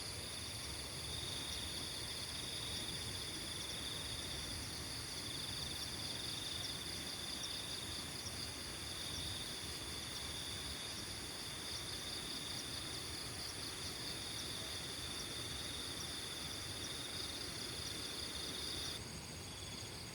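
Crickets and other insects chirring in a steady, shrill chorus over an even low rush of background noise. Near the end the chorus suddenly thins and gets a little quieter.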